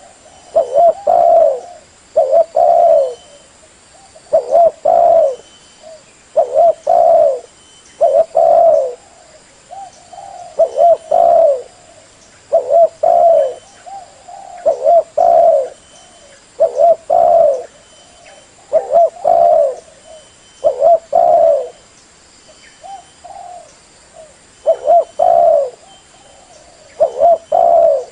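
Female spotted dove cooing: short coos, often in quick pairs, repeated about every two seconds, with a few softer calls in between.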